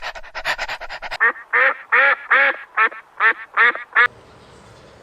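A fast, even run of short rattling notes, then a duck quacking about eight times, stopping about four seconds in.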